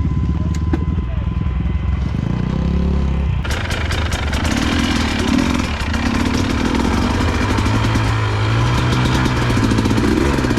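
Motorcycle engine running close by, its pitch rising briefly about two to three seconds in. From about three and a half seconds a loud rushing hiss with fine crackling joins the engine, which keeps shifting in pitch.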